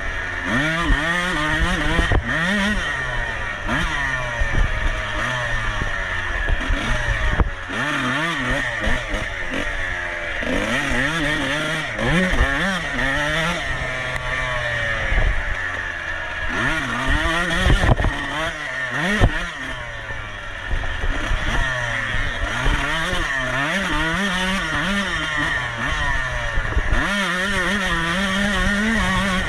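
Off-road racing motorcycle engine revving up and falling back over and over as it is ridden hard, the pitch climbing with each burst of throttle and dropping between, with a few short knocks.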